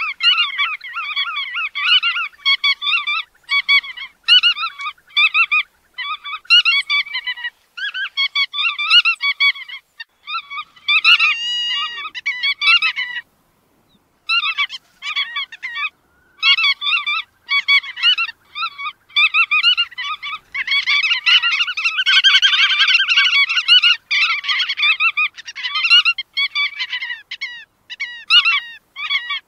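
Bar-tailed godwits calling in rapid, overlapping chattering notes, with a short pause about halfway through.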